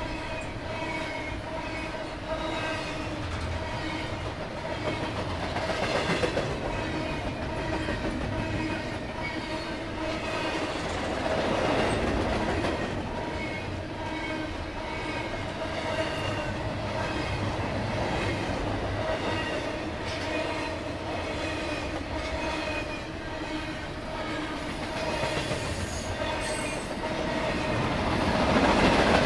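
Long freight train of double-stack container cars rolling past: steady wheel-and-rail noise with a pitched tone running under it, getting louder near the end.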